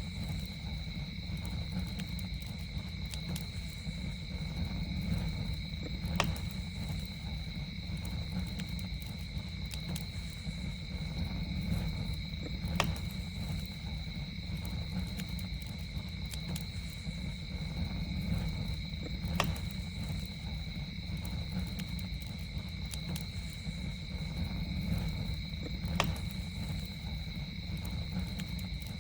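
Campfire burning with a low rumble and scattered small crackles, a sharper pop about every six to seven seconds, over a steady high drone of night insects.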